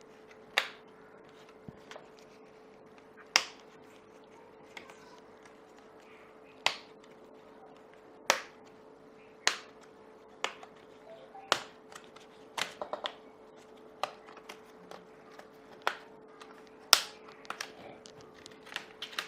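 Plastic retaining clips of an HP 240 G4 laptop's screen bezel snapping loose as the bezel is pried off: a dozen or so sharp clicks at irregular intervals, over a faint steady hum.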